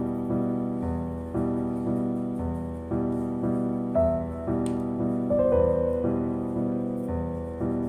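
Slow background piano music: soft chords struck about once a second, each fading before the next.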